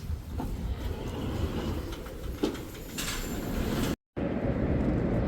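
Steady low rumble of a moving vehicle, with a few light clicks and a short clatter; it breaks off abruptly about four seconds in and resumes as a slightly louder steady rumble.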